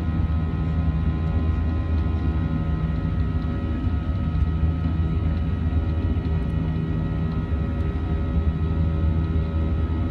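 Steady cabin noise inside a Boeing 737-900 from its CFM56-7B engines, heard from the front row: an even low rumble with several constant whining tones. The pitch neither rises nor falls.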